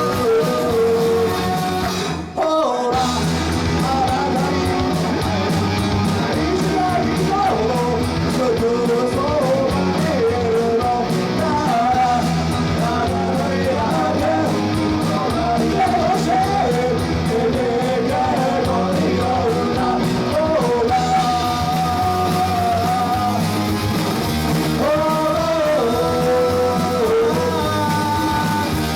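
A rock band playing live with a singer, electric guitars, bass and drums, the music dropping out for a moment about two seconds in before carrying on.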